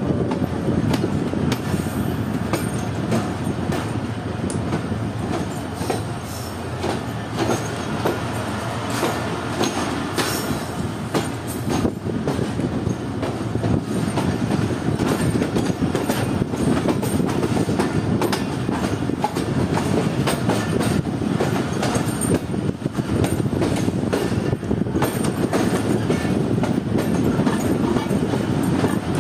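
Passenger train rolling steadily along the track, heard close beside its coaches: a dense running rumble of wheels on rail, broken by frequent irregular clicks and knocks over the rail joints.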